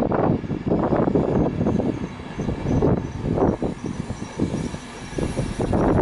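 LNER passenger train rolling along the adjacent track through the station, its wheels and coaches making an uneven rumble that surges and dips every half second or so.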